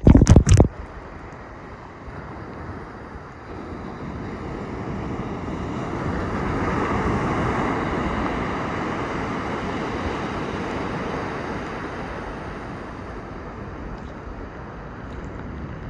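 Surf on the beach: a wave's rush swells to its loudest about seven seconds in and slowly eases off, with wind buffeting the microphone. A few loud knocks right at the start.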